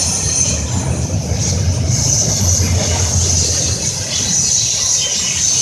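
Double-stack intermodal freight cars rolling past: a steady low rumble of wheels on rail with a high, sustained wheel squeal.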